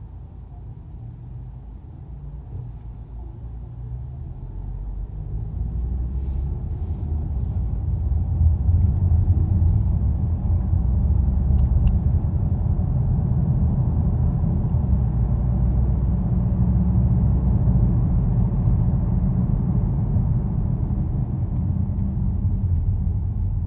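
Car driving, heard from inside the cabin: a low engine and road rumble that builds over the first eight seconds or so and then holds steady.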